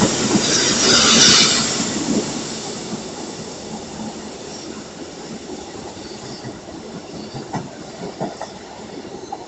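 EN57AL electric multiple unit running along the track, its wheel and rail noise loud for the first two seconds and then fading away, with a few faint rail knocks later.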